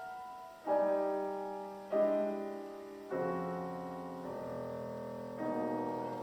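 Solo piano playing a slow series of rich chords, five struck at roughly even intervals about a second apart, each left ringing and fading before the next.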